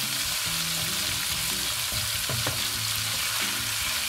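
Mashed tofu with shrimp and cilantro sizzling in hot oil in a nonstick pan while a spatula stirs and scrapes through it, with one sharp knock a little past halfway.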